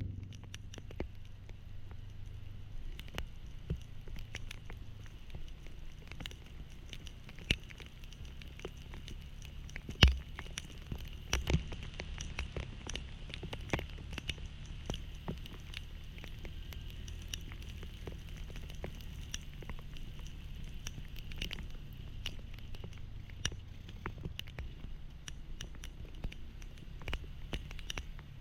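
Rain drops pattering and tapping in irregular sharp clicks, with a low steady hum underneath.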